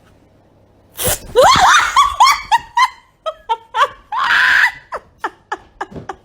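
A sudden loud outburst, then a run of short, high-pitched laughing cries, about three a second, with one longer, hoarser cry past the middle and short breathy puffs near the end.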